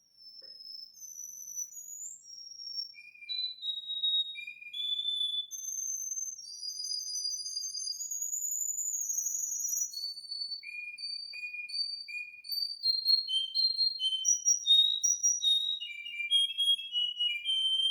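Russian canary singing: a long song of clear whistled notes, each repeated several times in a run before the pitch steps up or down to the next, getting louder in the second half.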